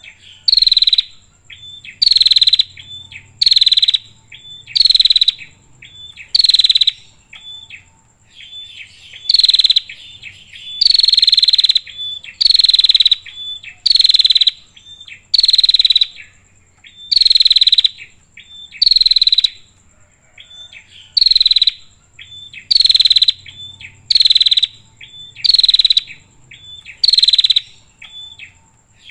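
Female prinia (prenjak) calling: loud, buzzy notes that sweep down in pitch, repeated about once a second in runs with short pauses, with softer short chips between them.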